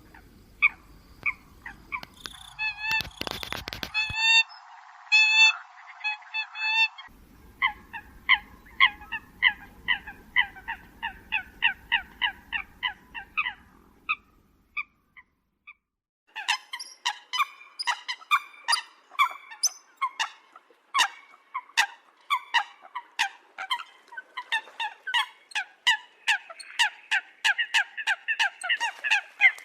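Eurasian coots calling: a fast series of short, sharp honking notes, several a second, played as a bird-lure recording. The calls come in spliced sections that start and stop abruptly, with a pause of about two seconds near the middle.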